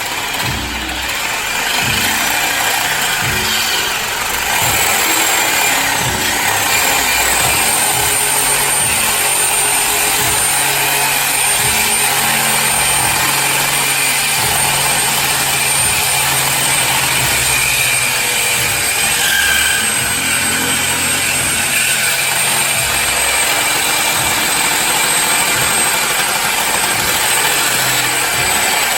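Power tool running steadily with a thin high whine, cutting through the car's stock exhaust piping to remove the resonator and muffler.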